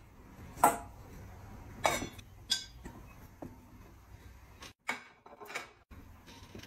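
Tableware clinking: a ceramic plate and chopsticks knocking against a metal bowl as rice is tipped and pushed into it. Three clear clinks in the first couple of seconds, then fainter scattered taps.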